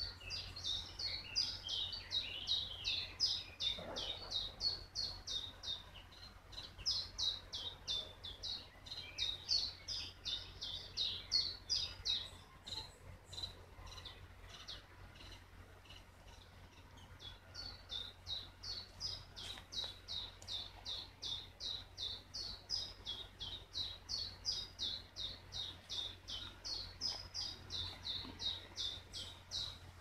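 Songbirds singing in a summer forest: a long run of quick, high chirping notes at about three a second, which pauses for a few seconds midway and then resumes.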